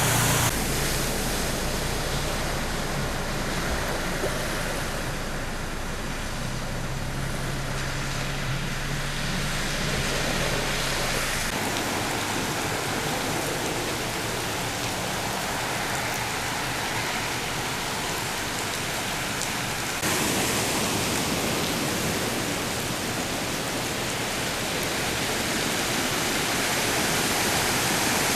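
Steady rush of water from flash flooding. A low engine hum runs underneath for the first third, then drops out.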